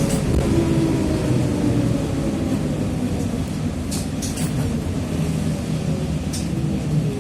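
Trolleybus running, heard on board: the whine of the Ishimbay drive axle and DK-213A traction motor slowly falls in pitch as it slows, over a low rumble. A few short sharp clicks come about four and six seconds in.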